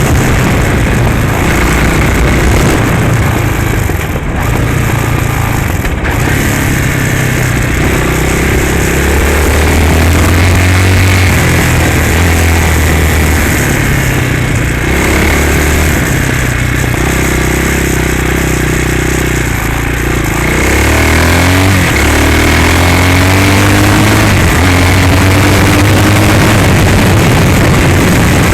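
Hawk 250cc dirt bike's single-cylinder engine running under throttle, its pitch rising and falling as the revs change, with a run of rising pitch about three-quarters of the way through.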